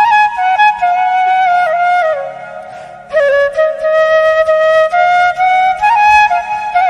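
Background music: a solo flute playing a slow, ornamented melody with sliding notes, pausing briefly about three seconds in, over a faint steady low drone.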